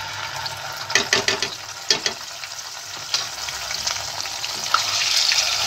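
Ginger-garlic paste sizzling in hot oil in a kadai, stirred with a wooden spatula that scrapes and knocks against the pan. A quick run of sharp knocks comes about a second in, and the sizzling grows louder near the end.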